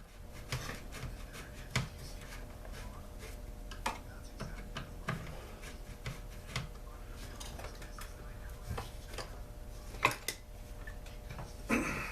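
Light clicks, taps and rubbing of tools and small chainsaw parts being handled during disassembly, at irregular intervals, with a sharper knock near the end.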